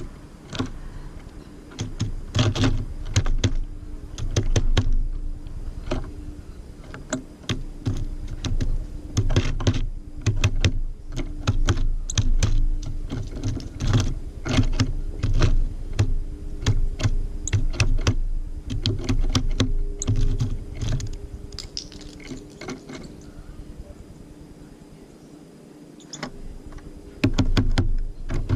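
Small birds, tits, pecking and hopping on a bird feeder right by the camera: rapid, irregular sharp taps and knocks with dull thuds, in bursts with short lulls.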